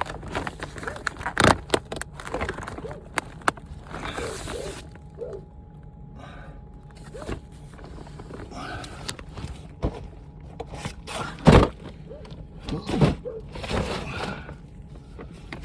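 Scattered thunks, knocks and rustling scrapes of a person crawling and shifting through a tight crawl space lined with plastic vapour barrier, the loudest thump about eleven and a half seconds in.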